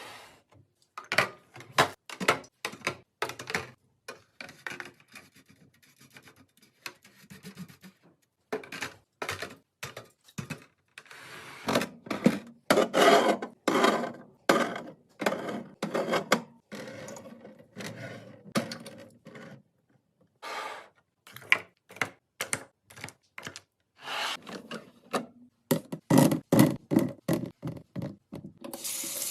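Containers and food items being handled while a refrigerator is organised: a run of irregular knocks, taps and set-down thunks with rubbing and scraping between them, quieter for a few seconds early on and again a little past the middle.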